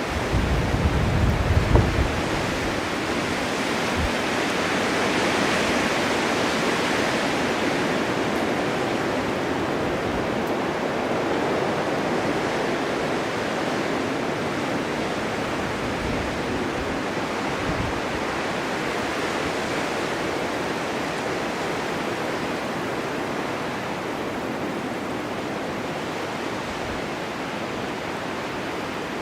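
Blizzard wind blowing snow: a steady rushing hiss, with low gusts buffeting the microphone in the first two seconds, swelling around six seconds in and easing slightly toward the end.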